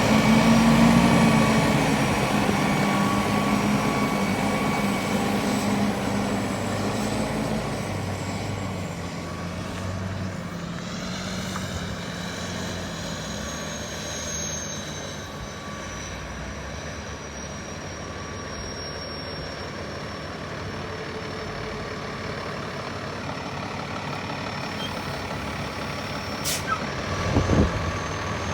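2013 Peterbilt 337 feed truck running, loudest at first and then settling to a steady run, with a thin high whine throughout. There is a brief clatter near the end.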